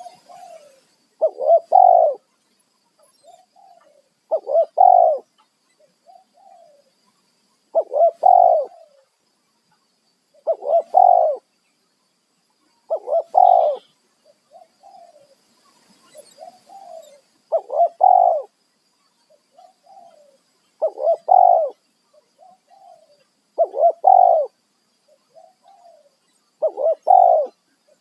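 Spotted dove cooing over and over: a loud phrase about every three seconds, with softer short coos between them.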